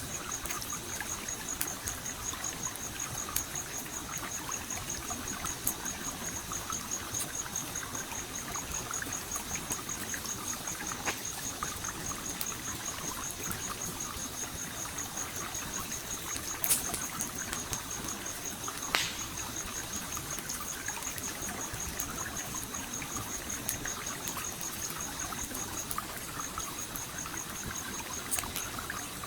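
Stream water trickling and flowing steadily, with a campfire crackling in scattered sharp pops, two louder ones a little past the middle. A steady, rapidly pulsing high trill runs alongside and breaks off briefly near the end.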